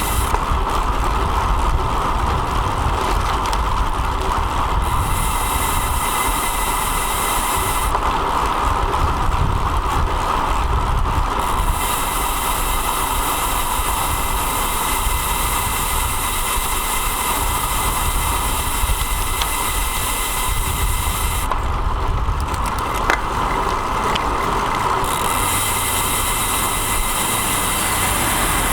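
Steady riding noise from a road bike's bike-mounted action camera: wind on the microphone and tyre hum from the road, with a hiss that comes and goes in stretches of a few seconds.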